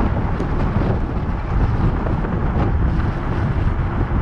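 Wind buffeting the microphone of a camera on a moving electric bike: a loud, steady low rumble.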